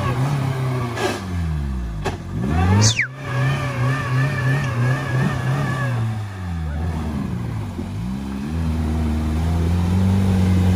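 Lada Niva engine revving hard under load in clay mud. The revs drop away about two seconds in and pick up again, sag a second time later, then climb and hold higher near the end. A brief falling whistle sounds about three seconds in.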